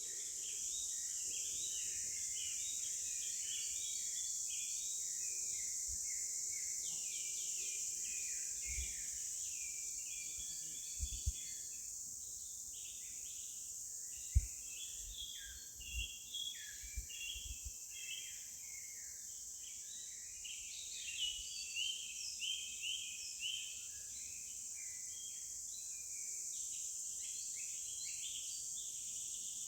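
Many small birds chirping and twittering together, with dense overlapping calls, over a steady high-pitched insect drone. A few low thumps come in the middle.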